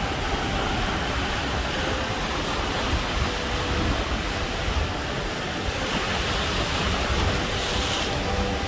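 Ocean surf: a steady rush of breaking and washing waves with wind rumbling on the microphone, the hiss of the water growing brighter about six seconds in.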